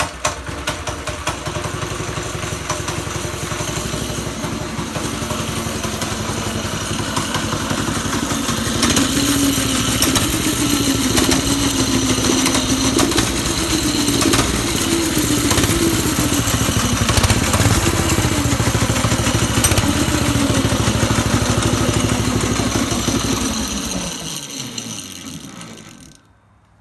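Small mini bike engine starting, then running steadily. From about nine seconds in it runs louder, its pitch rising and falling with the throttle. Near the end the pitch falls and the sound dies away.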